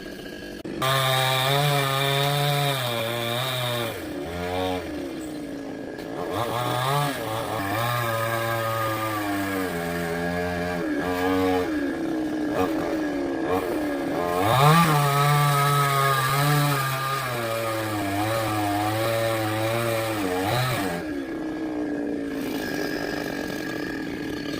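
Chainsaw cutting wood, its engine running at high revs with the pitch sagging and recovering as the chain bites in, easing off briefly a few times.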